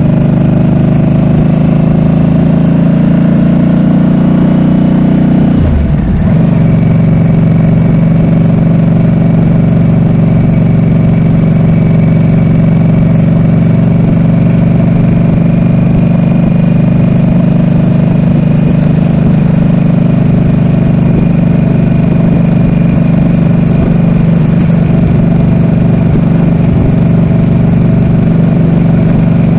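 Harley-Davidson Nightster RH975's V-twin engine running on the road, heard from a handlebar-mounted camera. The engine note breaks briefly about six seconds in, then holds steady.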